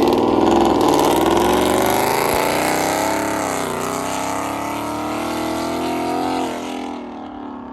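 Loud Ford Mustang exhaust as the car drives off. The engine note dips and climbs again about halfway through, then falls away near the end as the car moves off.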